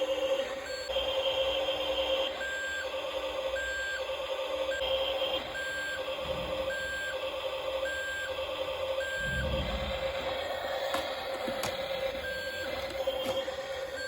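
A remote-control toy truck's electronic beeper sounding short beeps about once a second, with a couple of pauses, over a steady electric hum. A brief low rumble comes about nine seconds in, and a few clicks near the end.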